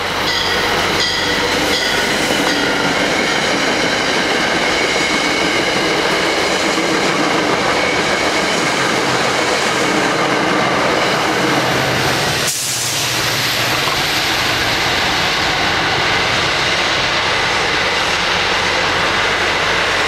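Train passing close by at speed: a loud, steady rush of wheel and rail noise with high whining tones over it. There is a brief dip about twelve seconds in.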